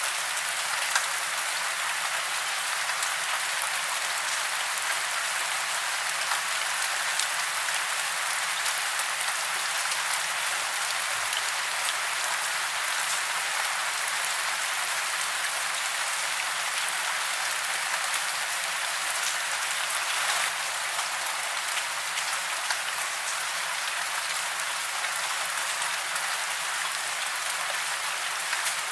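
Steady rain falling on a forest, a dense even hiss with scattered individual drops.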